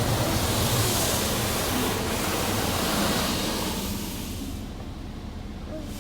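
Car wash machinery running with a steady rushing noise, which grows quieter and duller about four seconds in.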